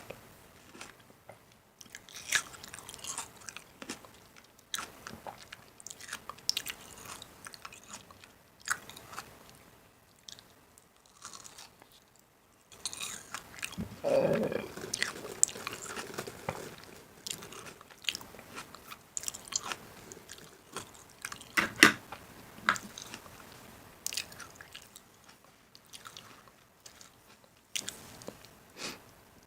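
Irregular crunching, clicking and knocking sounds of food being handled, with a longer, louder rustling crunch about fourteen seconds in and a sharp knock a little after twenty seconds.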